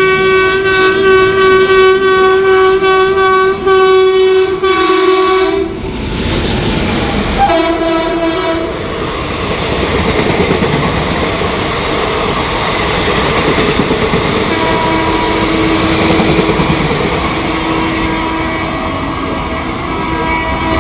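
Indian Railways train sounding a long horn blast of about six seconds, then a short second blast, followed by the rumble and wheel clatter of the train running past. A fainter steady horn tone comes in over the rumble in the last few seconds.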